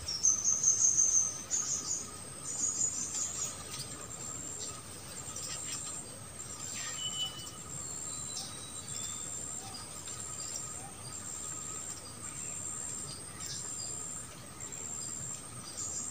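Forest insect, cricket-like, calling in short high-pitched pulses about one and a half a second over a steady faint high drone. Louder high chirping notes come in the first three or four seconds.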